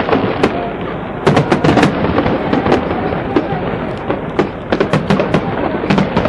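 Aerial firework shells bursting in irregular volleys of sharp bangs and crackles. There is a quick cluster of reports a little over a second in, and more scattered cracks through the rest.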